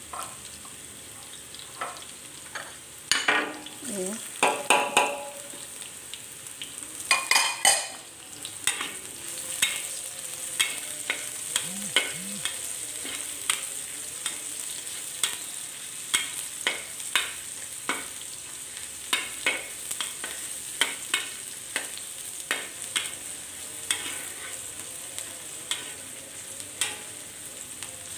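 Chopped garlic and red onion sizzling in hot oil in a wok while being stirred with a metal spatula, which scrapes and taps against the pan about once a second, scraping hardest a few seconds in.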